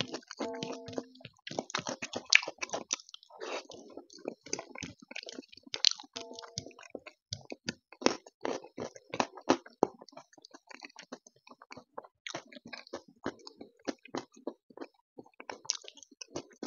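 Close-miked chewing of rice mixed with taro root curry (arbi ki sabji), eaten by hand: many quick, wet mouth clicks, with fingers squishing and gathering the rice on a metal plate.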